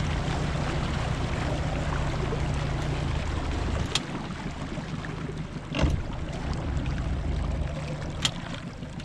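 A boat's engine running steadily, with wind and water noise; the hum eases a little about three seconds in. A few sharp knocks come at about four, six and eight seconds.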